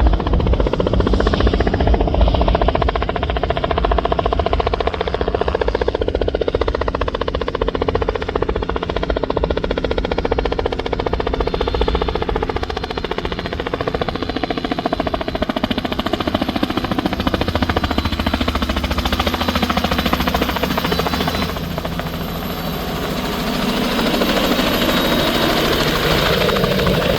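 Helicopter running close by, its rotor chopping fast over the whine of the turbine engine, loud and continuous, with the pitch of its tones slowly bending as it moves. The sound dips briefly about two-thirds of the way through, then grows again.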